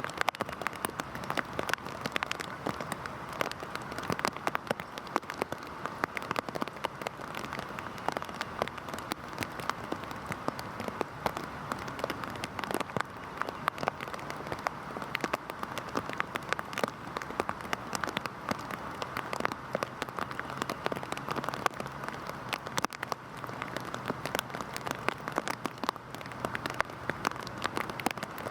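Heavy rain falling steadily, with dense close drop impacts pattering on a surface.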